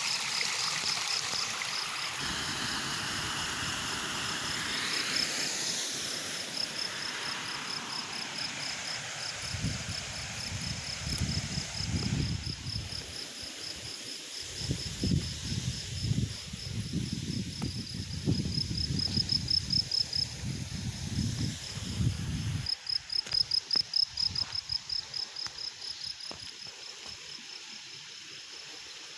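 Running stream water with a steady high, pulsing insect trill over it. Irregular low rumbling pulses come and go through the middle part.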